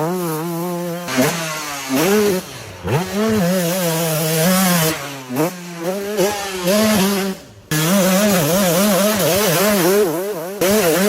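2004 KTM 200 SX two-stroke dirt bike engine revving hard as it is ridden, its pitch wavering up and down with the throttle. The engine note dips and climbs again several times, and cuts out abruptly and comes back about seven and a half seconds in.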